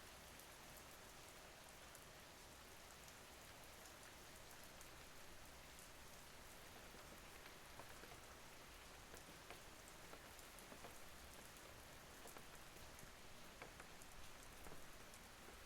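Faint, steady rain, with scattered sharp ticks of single drops.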